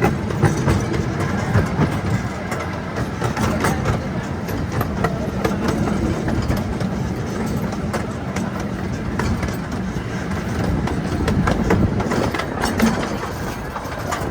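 Zoo train running along its track, heard from aboard: a steady rumble with many irregular clicks and clatters from the wheels and cars.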